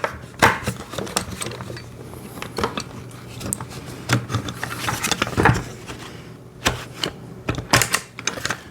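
Irregular clicks and knocks of a metal axle and hard plastic parts being handled as the axle is worked through the front wheel and axle holes of a kids' ride-on motorcycle.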